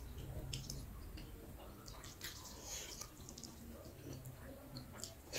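Quiet chewing of a mouthful of rice and pork curry, with scattered short mouth clicks.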